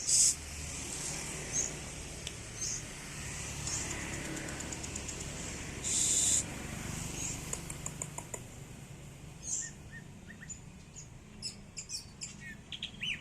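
A songbird chirping and calling: repeated short high chirps, two louder harsh bursts (one at the start, one about six seconds in), a quick ticking run just after, and a flurry of varied calls near the end.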